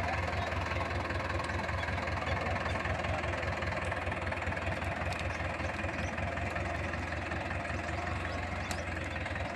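Tractor engine running steadily at low revs, an even low drone with no revving.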